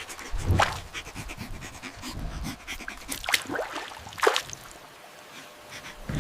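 An animal panting in short ragged breaths, with three brief cries that fall in pitch.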